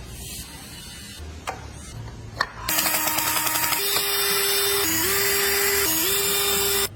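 An electric power tool motor running at a steady high speed, dipping in pitch twice for a moment as it takes load, then cutting off suddenly. Two sharp clicks come before it starts.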